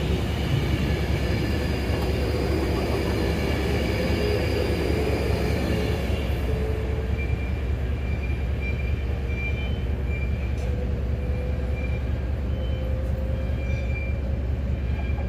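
Avanti West Coast passenger train running along the platform and away, the rumble of its wheels on the rails fading over about six seconds into a distant steady hum. Faint high-pitched wheel squeals come and go in the second half.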